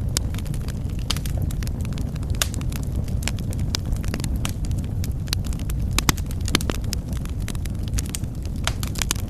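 Wood fire burning in a fireplace: a steady low rumble of flames with frequent irregular crackles and pops, a couple of sharper pops about six seconds in.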